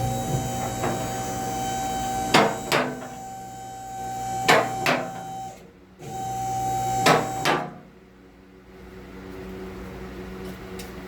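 Car lift's electric hydraulic pump motor running as the lift raises the vehicle. It stops briefly about 5½ seconds in, then runs again for about a second and a half. Sharp metal clanks come over it, mostly in pairs, typical of the lift's safety latches catching as it climbs.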